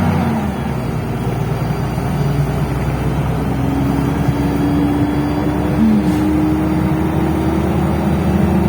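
MAZ-105.065 articulated city bus under way, heard from inside: steady engine and road rumble, with a whine that climbs slowly in pitch from about three seconds in as the bus gathers speed.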